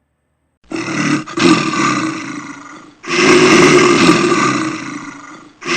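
Two long, loud animal roars one after the other, each about two and a half seconds and fading toward its end, with a third just starting at the very end.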